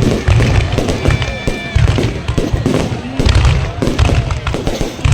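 Fireworks display: aerial shells bursting in quick, overlapping succession, a steady barrage of bangs and deep thuds, with crowd voices under it.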